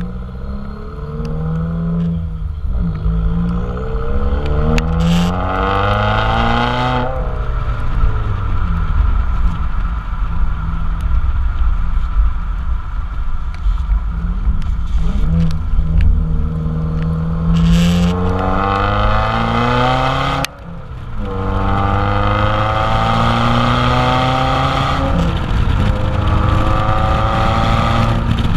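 Muffler-deleted exhaust of a 2017 Subaru WRX's turbocharged flat-four, loud and continuous, its revs climbing and falling several times. There is a brief sharp drop in level about twenty seconds in.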